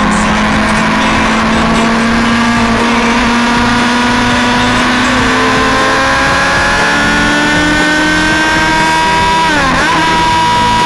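Motorcycle engine heard on board under steady acceleration, its note climbing slowly. Near the end the revs drop sharply and pick up again, as in a gear change.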